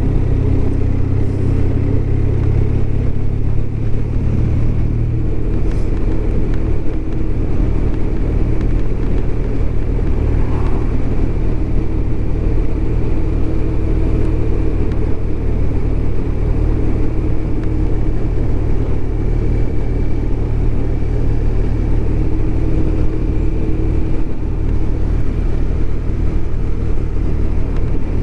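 BMW R1200RT's boxer-twin engine running at a steady cruise while riding, its note holding an even pitch throughout.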